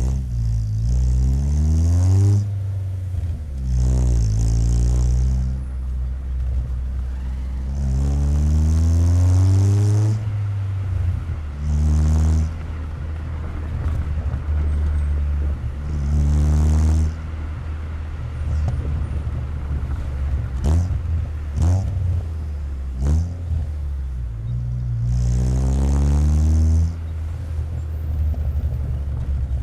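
Exhaust of a 1997 Chevrolet Corsa Wind 1.0 MPFI four-cylinder through a JK aftermarket muffler, heard close to the tailpipe while driving. It gives several pulls whose note rises and then drops off at each gear change, with a few short throttle blips about two-thirds of the way in.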